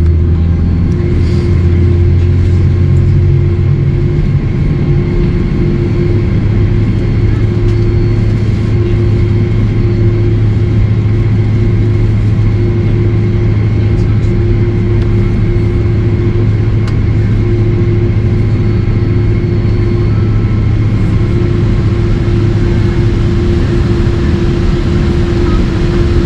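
Steady drone of a Boeing 767-300 airliner with General Electric CF6 engines. The low engine note steps up in pitch over the first few seconds, then holds steady under a constant hum.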